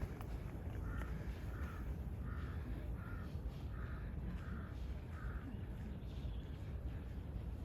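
A crow cawing seven times in an even series, about two calls a second, over a steady low rumble.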